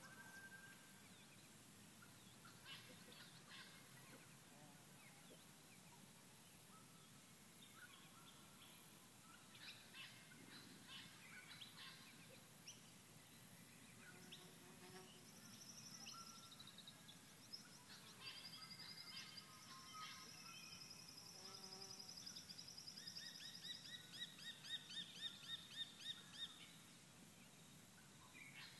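Near silence with faint wild birdsong: scattered short chirps and calls, then a call of fast repeated pulses over the last few seconds.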